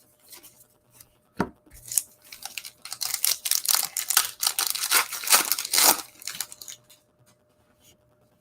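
A sealed trading-card pack wrapper being torn open and crinkled by hand, a burst of crackling tearing lasting about four seconds, with a sharp click just before it.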